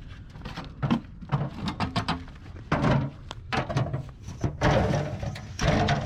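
Scrap appliance metal being handled: a run of knocks and clatters, with a few longer scraping bursts about three, five and six seconds in.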